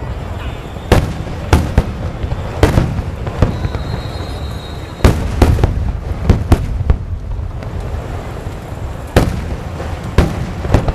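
Fireworks display: a quick, irregular string of sharp bangs over a constant low rumble of bursting shells, with the loudest bangs about halfway through and again near the end.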